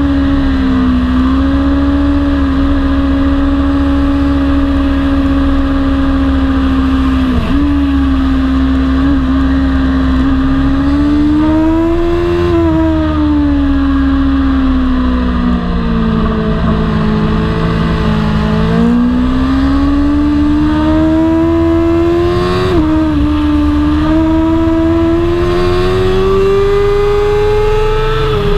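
BMW superbike engine at racing speed on track, its note held high and shifting up and down. A quick dip and recovery about a third of the way in and again near three-quarters marks gear changes; the note falls to its lowest around the middle as the bike slows for a corner, then climbs hard again and drops off at the very end.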